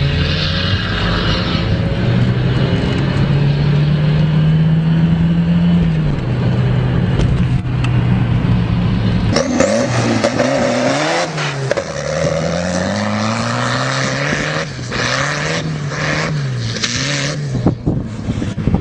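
Turbocharged tractor engine running hard, its pitch climbing slowly and holding, then dropping. About halfway through the sound changes abruptly and the engine revs up and down over and over.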